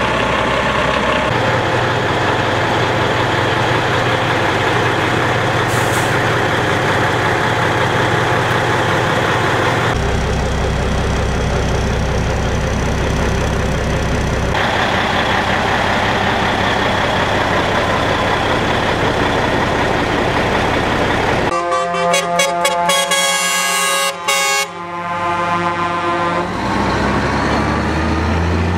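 Heavy trucks' diesel engines running and driving past, a loud steady rumble. Near the end a truck air horn blows for several seconds with a brief break in the middle.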